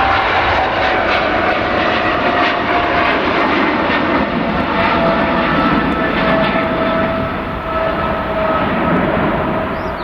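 Airliner engines running loud as the aircraft passes, a dense rushing noise with an engine whine that slowly falls in pitch, easing a little near the end.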